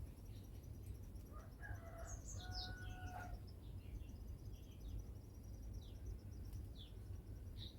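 Birds chirping faintly: a burst of mixed calls about two seconds in, then a few short falling chirps near the end, over a steady low rumble.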